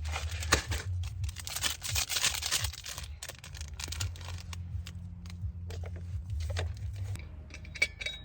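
Plastic instant-ramen packaging crinkling and tearing as it is handled and opened close by. The crackling is densest for the first few seconds, then thins to scattered rustles.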